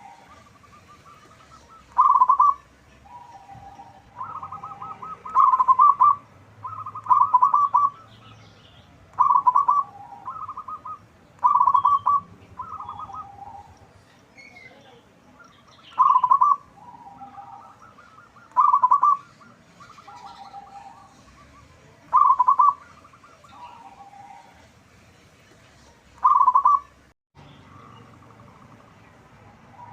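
Zebra dove (perkutut) cooing: loud, short rattling coo phrases made of quick pulsed notes, repeated every two to four seconds, with fainter, lower coo notes between them.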